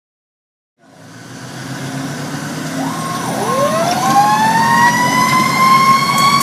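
Fire engine responding under sirens: one siren yelps in quick repeated rises and falls, and a second siren winds up steadily in pitch from about halfway through and then holds a high steady wail, over the truck's steady engine rumble. The sound fades in from silence about a second in.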